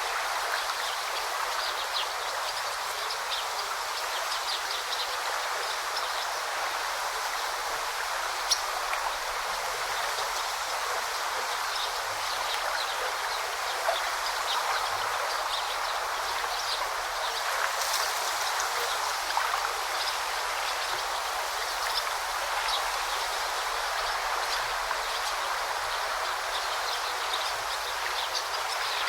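A shallow stream babbling steadily over rocks, with small splashes and plinks of water scattered throughout.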